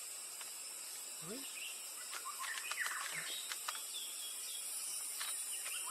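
Wild birds chirping, a run of quick rising and falling notes starting about two seconds in, over a steady high hiss of background noise.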